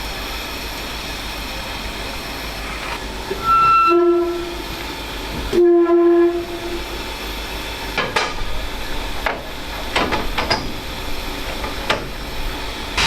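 Steam locomotive whistle sounding two short blasts about two seconds apart, followed by several irregular sharp knocks over a steady background hiss.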